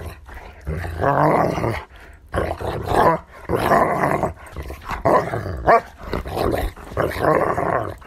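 Dogs barking and growling in a string of loud, repeated barks, about one or two a second.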